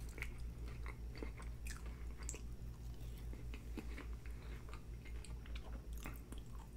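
Close-miked mouth sounds of chewing a sauce-dipped French fry: small wet clicks and smacks scattered throughout, over a faint steady low hum.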